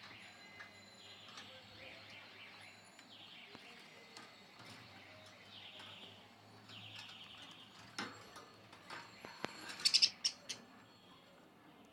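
Budgerigar chattering in short warbling bursts, then a quick cluster of sharp, louder high chirps or clicks near the end.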